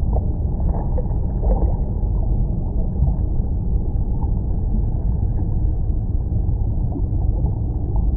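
Steady low rush of flowing stream water, loud and unbroken.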